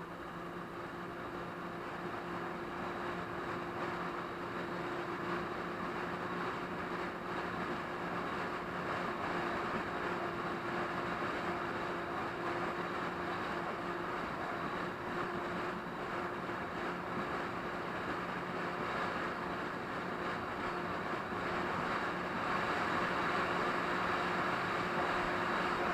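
Jet ski engine running steadily under way, a constant hum over a rushing hiss, growing slowly louder.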